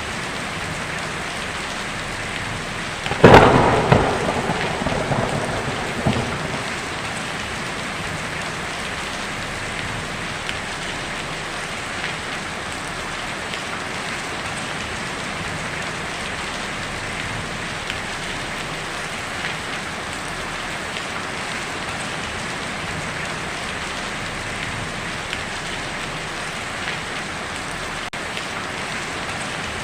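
Heavy rain drumming steadily on a tin roof, with one sharp clap of thunder about three seconds in that rumbles away over the next few seconds.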